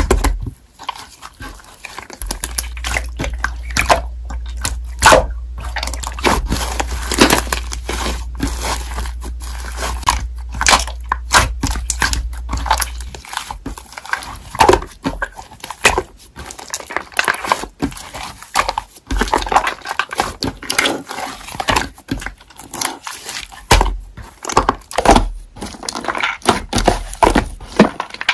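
Slime being squished and kneaded by hand, making a dense run of irregular sticky clicks and crackling pops.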